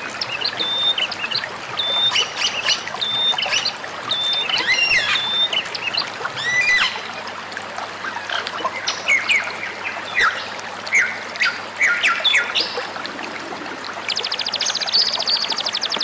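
Songbirds calling: short whistled notes repeated about once a second, then a mix of quick rising and falling chirps. A fast buzzing trill comes in near the end. Underneath is a steady hiss of running water.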